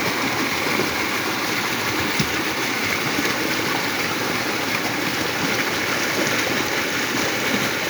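A flooded creek rushing: a steady wash of fast-flowing floodwater after heavy rain.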